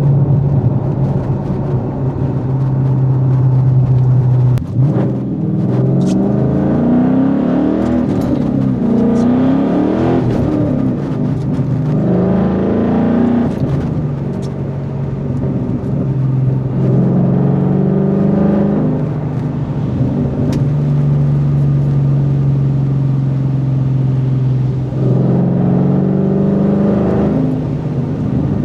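Ford Mustang GT's Coyote 5.0 V8 and exhaust, running steadily at a cruise. Its revs rise and fall in several pulls, about five to thirteen seconds in and again near the end.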